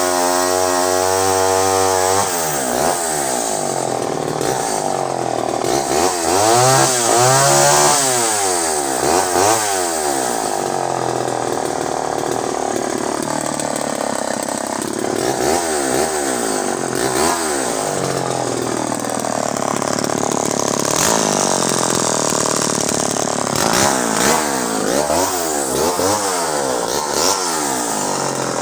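Vintage Pioneer 1200 58cc two-stroke chainsaw running at a steady speed for about two seconds, then revving up and down again and again, its pitch rising and falling as it works through cuts in larch.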